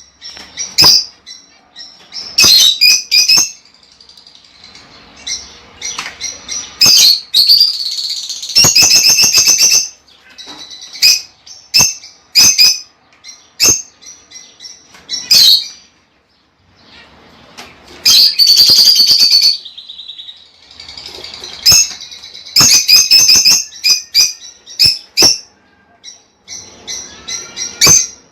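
Lovebirds calling: loud, shrill chirps in quick clusters, with longer runs of rapid chattering about eight and eighteen seconds in.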